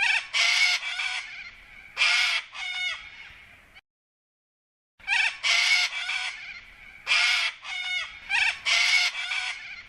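A bird giving repeated harsh, rasping calls like cawing: four calls in the first three seconds, a second of silence, then five or six more calls.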